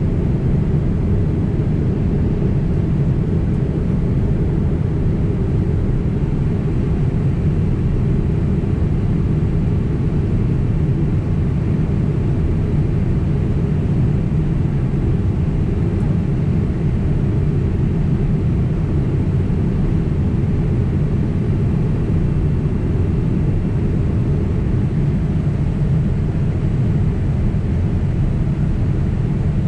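Steady low rumble of jet engines and airflow heard inside the passenger cabin of a Boeing 767 in flight.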